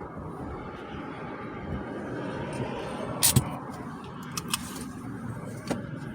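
Jeep Gladiator engine idling, with a low steady rumble. A few sharp clicks come over it, a double one about three seconds in and another a second later, as the driver works the gear and four-wheel-drive controls.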